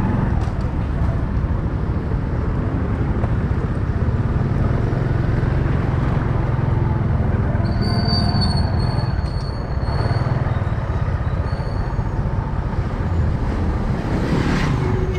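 Steady low rumble of a motorcycle riding through city traffic. A thin high squeal runs for about two seconds starting about eight seconds in, and comes back briefly near twelve seconds.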